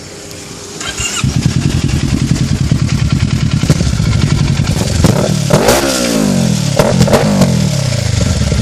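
Kawasaki Ninja 650 parallel-twin engine with an IXIL aftermarket exhaust. It cranks on the starter for a moment and catches about a second in, then idles, and is revved twice near the middle, each rev rising and falling back to idle.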